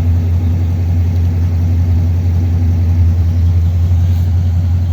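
1957 Ford Thunderbird's Y-block V8 idling steadily with a deep, even hum.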